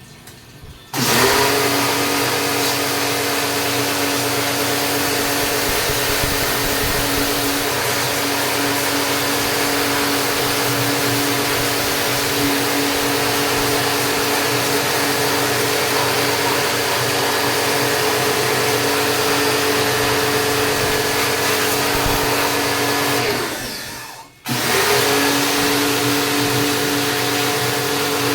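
A small electric motor of a cleaning machine running at a steady pitch, switched on about a second in; it cuts out and winds down near the end, then starts again.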